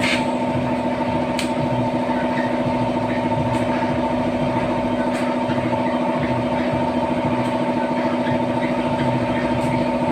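A steady mechanical drone from a running motor or engine, with a few faint light clicks over it.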